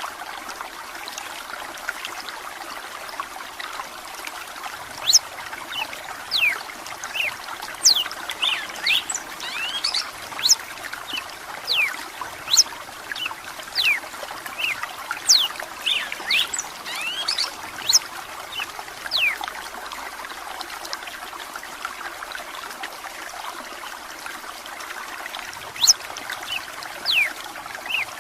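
Steady trickle of running water with a bird, the red-cowled cardinal, singing many short, sharp high whistled notes scattered irregularly over it.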